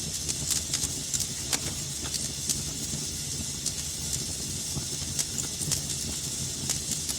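Wood fire burning in a fireplace: steady soft hiss and low rumble with irregular sharp crackles and pops, a few each second.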